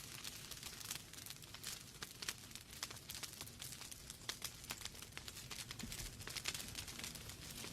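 Wood fire burning in a fireplace: logs crackling with many small sharp pops over a low, steady rumble of the flames.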